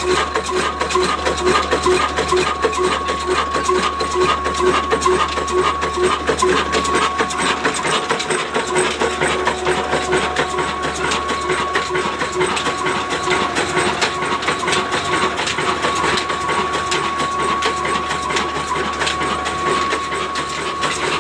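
22 hp Ruston-type desi diesel engine running steadily, a fast even mechanical clatter with a thin steady high tone over it.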